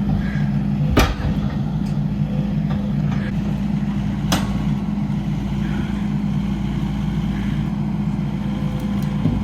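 Skid steer engine running steadily, with two sharp knocks, one about a second in and one past four seconds.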